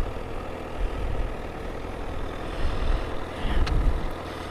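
Honda CBR1000RR's inline-four engine running steadily at low revs as the bike comes to a stop, heard through a microphone inside the rider's helmet, with gusty wind rumble over it.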